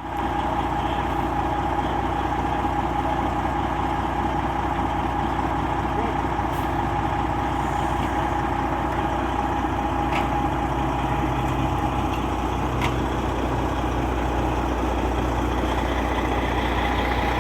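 Truck engine idling steadily, a constant drone with a low hum.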